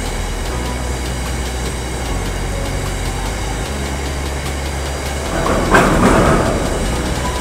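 Freight train of tank wagons rolling past at speed, with a steady low rumble from the wheels on the track. About six seconds in a sharp knock is followed by a louder surge of noise for about a second.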